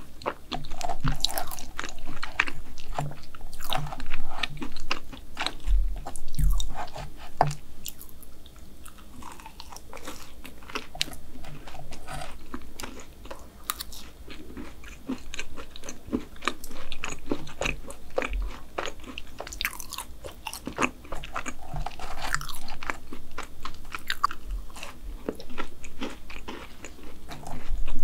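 Close-miked chewing of a mouthful of chocolate brownie with black sesame ice cream: a steady run of irregular wet, sticky mouth clicks and soft crunches.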